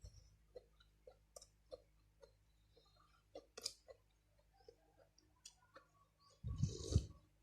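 Quiet eating sounds: a string of soft clicks and taps, with a louder, rustling burst near the end.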